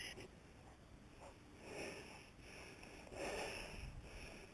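Faint breaths, one about every second and a half.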